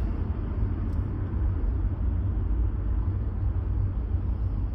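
Steady low rumble of a car's engine and tyres heard from inside a vehicle moving slowly in heavy traffic.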